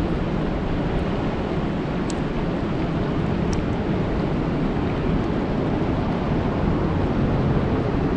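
Steady rain falling on a lake: a dense, even hiss with a heavy low rumble, and a few brief high ticks in the first few seconds.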